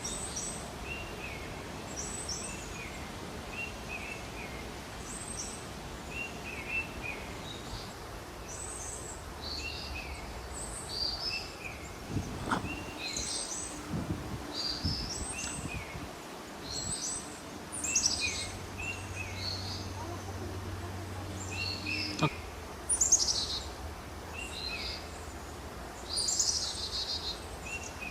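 Wild birds chirping and singing: short calls repeating every second or two, several voices overlapping, over a steady background hiss. A couple of faint clicks come around the middle.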